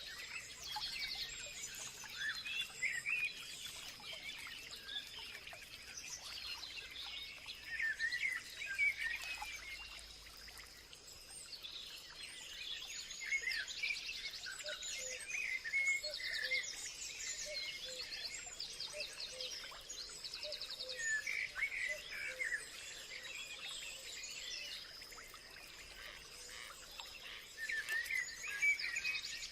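Several songbirds chirping and singing over one another, with bursts of rapid trills in the middle. A thin, steady high-pitched tone runs underneath.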